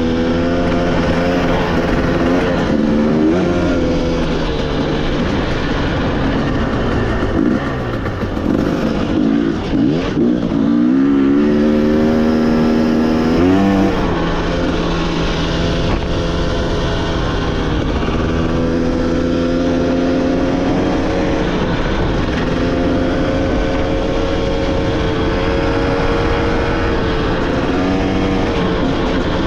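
Off-road motorcycle engine running under a rider on a dirt trail. The pitch drops off about eight seconds in, then climbs hard as the throttle opens, and settles to a fairly steady run with small rises and falls for the rest.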